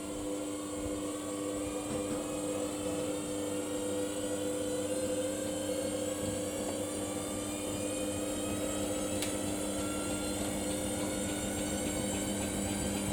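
Samsung washing machine running on its Daily Wash 30 cycle, a steady motor hum and whine whose pitch creeps slightly upward over the first few seconds.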